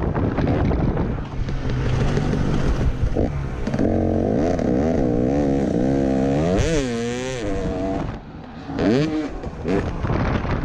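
Motocross bike engine revving up and down under hard riding, its pitch rising and falling over a rough rumble. Near the eighth second it drops off briefly, then revs up sharply again.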